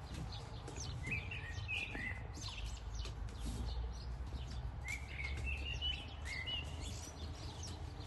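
Birds chirping in short bursts, two clusters of quick calls, over a steady low rumble with scattered faint clicks.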